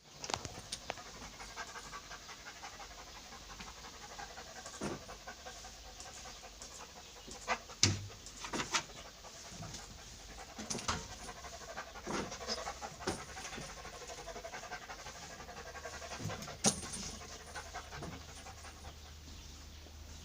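A pet animal panting steadily close to the microphone, with a few sharp knocks, the loudest about eight seconds in and again near the end.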